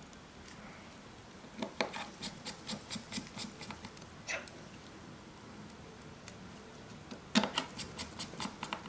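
Two quick runs of small, sharp clicks and taps from hand tools and parts being handled during a smartphone repair, the first starting under two seconds in and the second near the end, at several taps a second.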